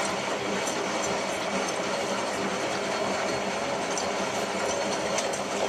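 Hotpoint 9534A washing machine running a Cotton 85 wash, the motor tumbling the drum in part-filled water with a steady mechanical whirr and clatter.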